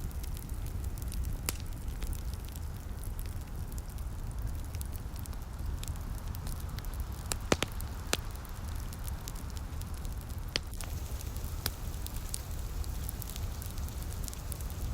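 Wood fire crackling, with scattered sharp pops over a steady low rumble and two louder pops about halfway through.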